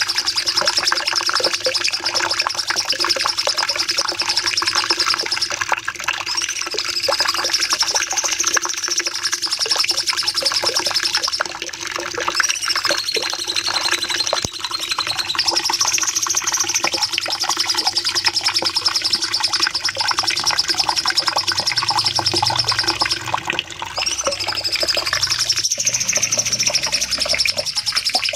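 Cucak cungkok (light-vented bulbul) singing a long, high, fast rattling trill, held for long stretches with a few brief breaks.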